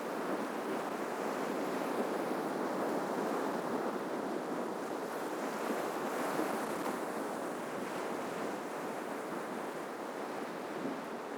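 Ocean surf breaking on the shore: a steady wash of wave noise that swells a little midway and eases toward the end.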